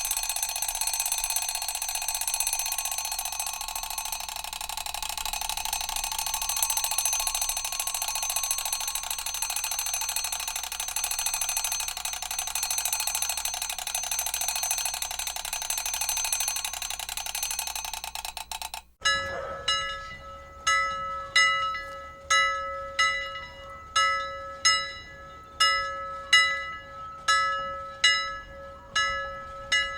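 Mechanical alarm clock bell ringing continuously, a fast steady high-pitched jangle that cuts off suddenly about two-thirds of the way in. It is followed by a medium-sized bell struck over and over, about four strikes every three seconds, each one ringing out and fading before the next.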